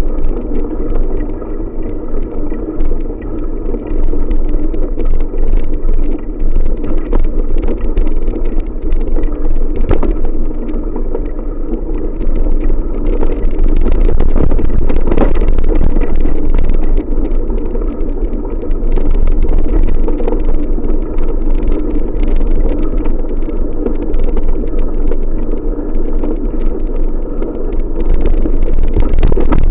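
Wind buffeting the microphone during a bicycle ride: a loud, steady rumble that rises and falls a little.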